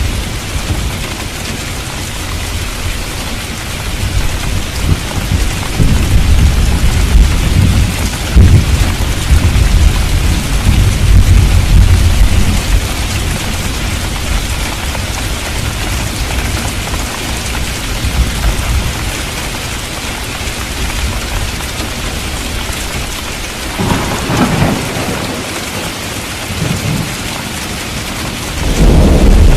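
Thunderstorm: steady heavy rain with long rolls of thunder, a big rumble building from about five seconds in and lasting several seconds. A sharper clap comes about two-thirds of the way through, and another near the end.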